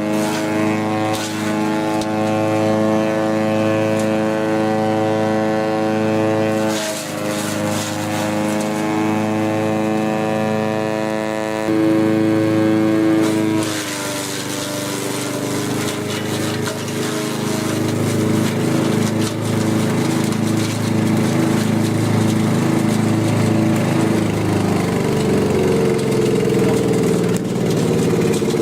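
Engine of a wood chipper running steadily. Its pitch dips briefly about seven seconds in, drops lower about fourteen seconds in, and climbs again near the end.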